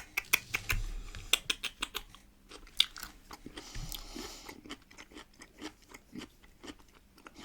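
Close-miked crunching and chewing of salted pickled cucumbers: a quick run of sharp crunches at first, then slower, wetter chewing. A dog snores twice in the background.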